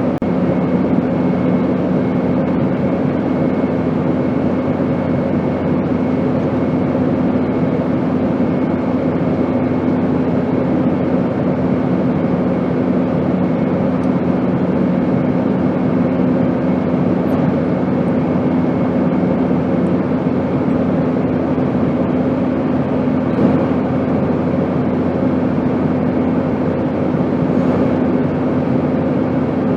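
Steady airplane noise: an even rushing drone with several constant humming tones underneath, unchanging throughout.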